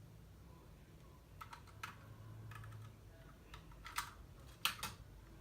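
Plastic LEGO pieces clicking as they are handled and pressed together: a handful of sharp, separate clicks, the loudest two about four and nearly five seconds in.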